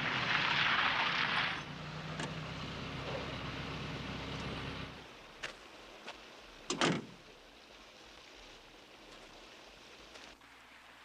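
Helicopter engine running steadily, then cutting out abruptly about five seconds in. A sharp knock follows about two seconds later.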